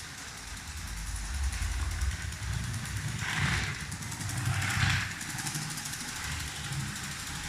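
Lego 7750 12-volt train locomotive running along its track: a low rumble of its electric motor and wheels, with two louder rushes of rattle about a second and a half apart.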